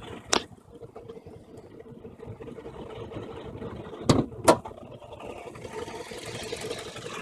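A 2006 Toyota Camry Solara's 2.4-litre four-cylinder engine idling steadily. There is a sharp click near the start, and two loud knocks half a second apart about four seconds in.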